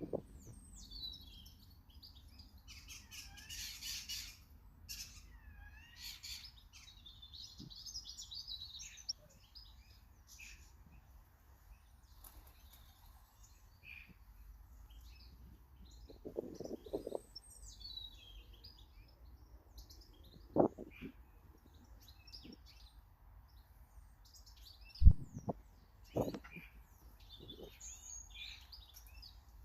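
Small garden birds chirping and twittering in short, scattered calls, with a few sharp knocks, the loudest about 25 seconds in.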